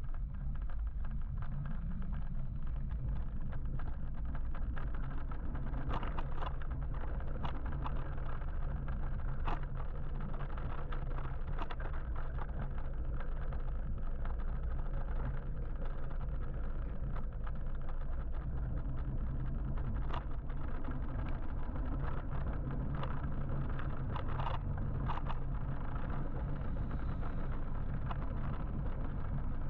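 Riding an electric motorbike in traffic: steady low wind rumble on the microphone and road noise, with a low steady hum and scattered short clicks and ticks.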